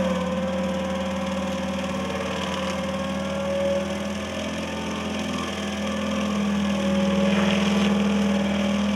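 Engine of a Shaver SC-30H stump grinder rig running at a steady speed: a constant hum that swells slightly near the end.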